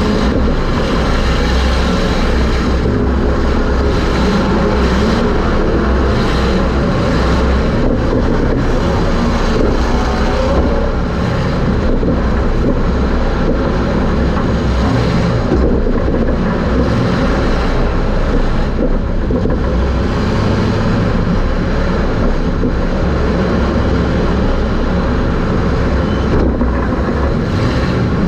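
Super Stock race car's engine running hard at racing speed, heard from inside the car with drivetrain and wind noise: a loud, steady drone with no let-up.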